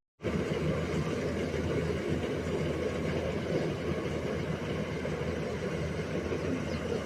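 Rice combine harvester running steadily as it cuts and threshes paddy, a continuous engine and machinery noise. The sound drops out for a split second at the very start, then runs on unchanged.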